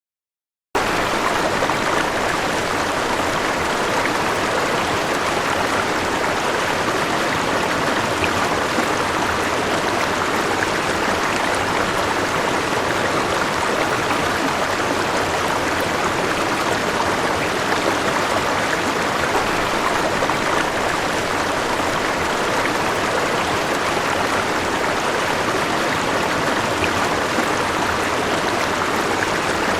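River water flowing in a steady, dense rush, starting abruptly just under a second in.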